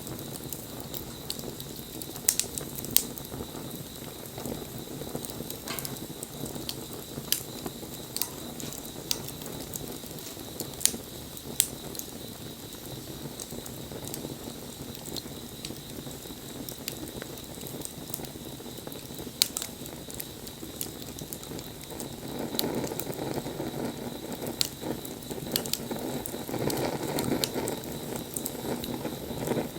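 Wood bonfire burning, with irregular sharp crackles and pops over a steady low rush of flame; the rush grows louder about two-thirds of the way through.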